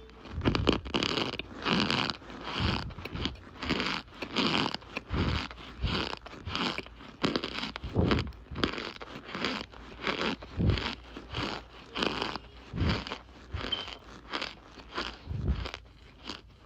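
Compressed cornstarch chunks crunching and squeaking, in a steady run of short crunches about one to two a second.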